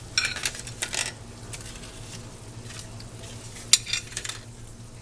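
Kitchen dishes and utensils clattering: several short clinks and knocks as plates and cookware are handled, the sharpest near the end, over a steady low hum.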